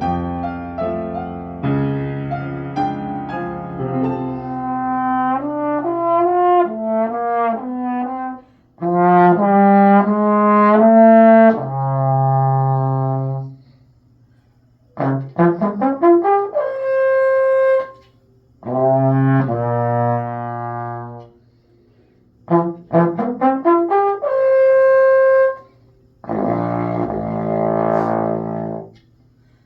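A brass instrument playing a solo: melodic phrases with quick rising runs of notes, broken by brief pauses.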